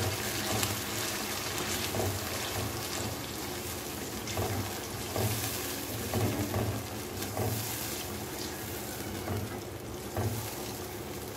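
Spice masala and freshly added whisked yogurt sizzling in hot oil in a frying pan, with a spatula stirring and scraping through it in strokes about once a second as the yogurt is fried into the gravy.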